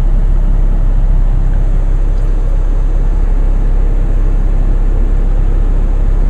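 Small four-cylinder turbo-diesel car idling while still cold, its temperature gauge not yet off cold, heard from inside the cabin with the heater blower running. A steady low rumble with an even hiss over it.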